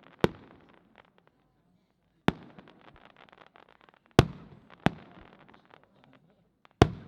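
Aerial fireworks bursting: five sharp bangs at irregular intervals, each trailing off in a rolling echo with faint crackling.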